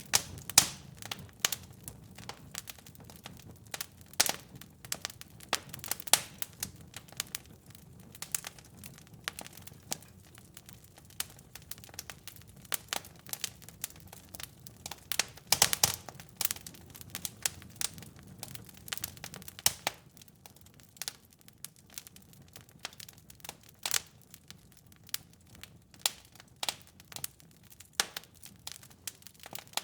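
Wood fire crackling in a fireplace: irregular sharp pops and snaps over a low, soft rumble of burning.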